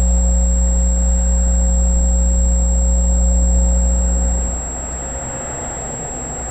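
A steady, loud low engine hum that drops away suddenly about four and a half seconds in, leaving a quieter rumble.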